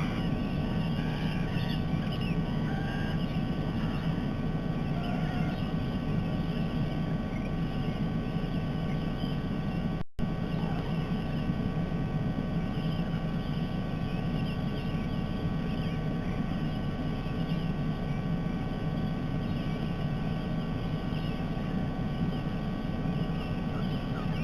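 Steady low background rumble with faint, scattered bird chirps over it. The sound drops out for a split second about ten seconds in.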